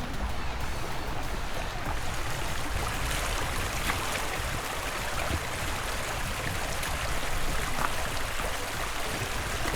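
Steady rushing of flowing water, like a stream, constant in level.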